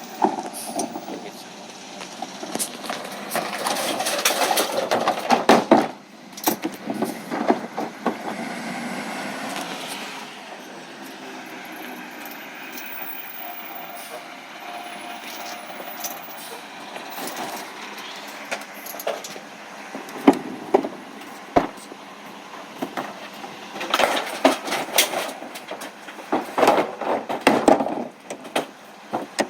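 Recycling truck at work: a steady vehicle noise broken by bouts of clattering knocks and bangs, loudest about five seconds in and again near the end.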